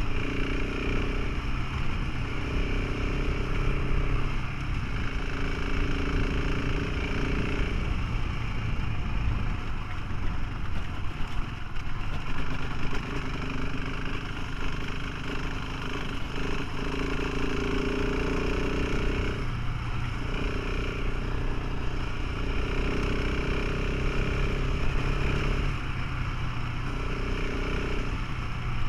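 Motorcycle engine running while riding, over a heavy rumble of wind and road noise. The engine note drops away and comes back several times.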